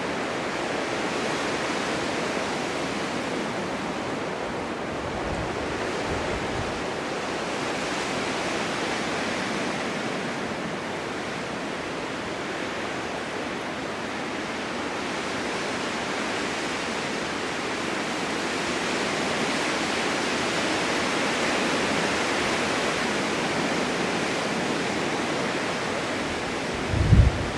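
Snowstorm wind blowing steadily, slowly swelling and easing, with a gust buffeting the microphone near the end.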